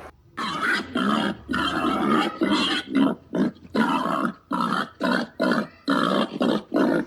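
An animal giving a fast series of short, hoarse grunts, about one and a half to two a second.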